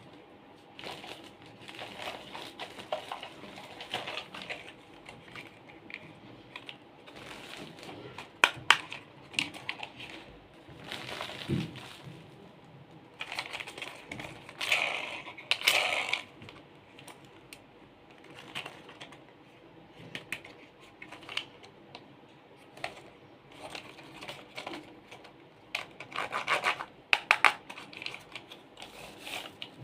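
Toys being handled at close range: irregular clicks and taps with bursts of crinkling and scratching, loudest in flurries about a third, half and nine-tenths of the way through.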